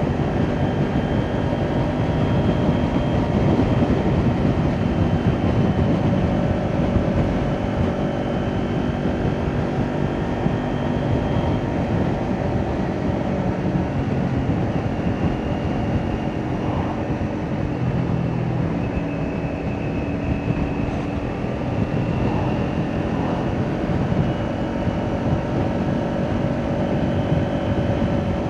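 Kawasaki Ninja 400 parallel-twin engine with an Akrapovic exhaust, running under way at moderate revs that rise and fall a little, over a steady rush of noise.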